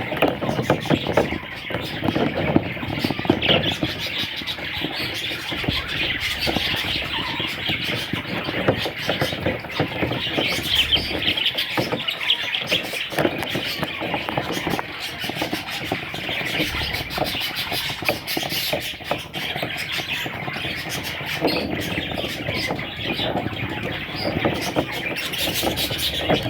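A flock of budgerigars chattering and warbling, many quick overlapping chirps running on without a break.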